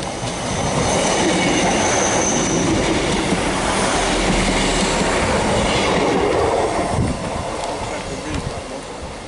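South Western Railway diesel multiple unit passing through the station at speed. The rumble of the wheels and engine builds over the first second, stays loud for several seconds as the coaches go by, and drops away after about seven seconds.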